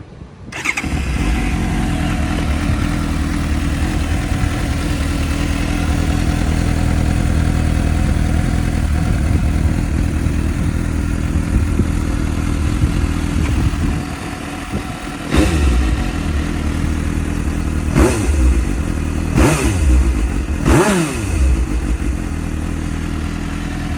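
Suzuki GSX-S750 inline-four engine starting through its stock exhaust about half a second in, then idling steadily. Near the end it is revved in four short throttle blips, each rising and falling in pitch.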